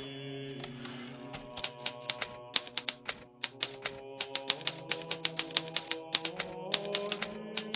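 Hermes Baby portable typewriter typing, a quick irregular run of key strikes that starts about a second and a half in and pauses briefly near the middle. Soft background music with long held notes plays underneath.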